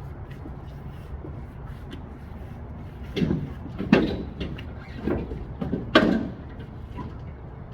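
Peterbilt big rig's engine running with a steady low drone, heard from inside the cab. A handful of loud clunks and rattles come between about three and six seconds in.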